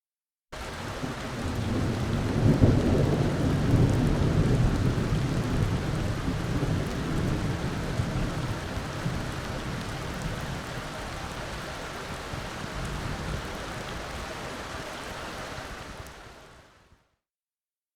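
Thunder rumbling over steady, heavy rain. It comes in suddenly about half a second in; the deep rumble is loudest a few seconds in and slowly dies away under the rain, and the whole fades out near the end.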